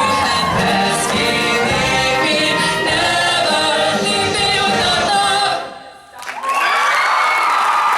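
A choir singing in harmony, stopping about five and a half seconds in; after a short gap, applause and cheering start near the end.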